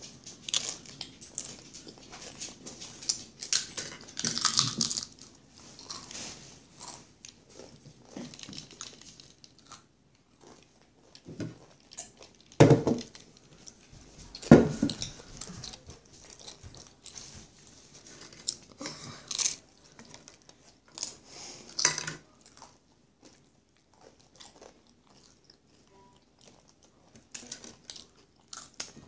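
Tortilla chips being crunched and chewed close to the microphone, in irregular crisp bites, with two loud bumps about halfway through.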